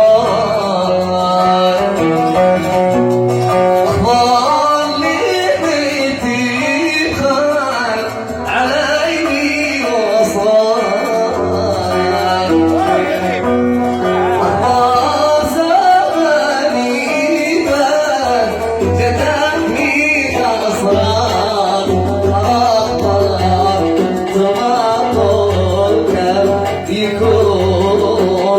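Yemeni Sanaani song: a male voice singing to oud accompaniment. A low pulsing beat comes in about eleven seconds in.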